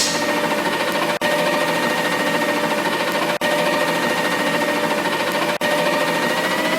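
A machine running steadily: a fast chattering rhythm under a steady hum, with short dropouts about every two seconds.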